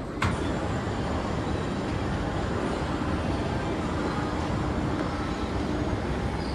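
Steady low rumbling background noise, like traffic or a moving vehicle, with a single sharp knock about a quarter second in.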